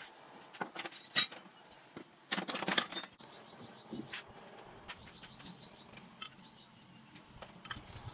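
Metal parts and tools clinking and rattling as they are handled: scattered light clicks, a sharp clink about a second in, and a rattling burst of just under a second about two and a half seconds in.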